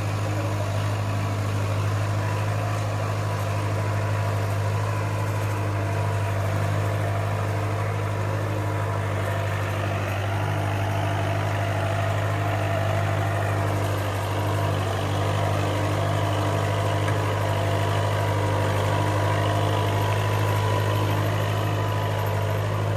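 Kubota tractor's diesel engine idling steadily, a deep even hum that holds the same speed throughout.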